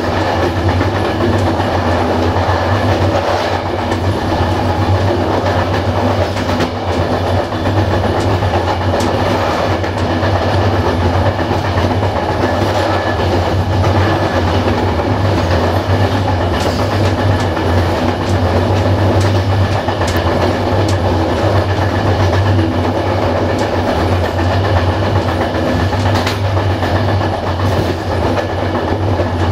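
Passenger train coach running along the track, heard from the rear of the train: a steady rumble of wheels on rail, with scattered clicks as the wheels pass over rail joints.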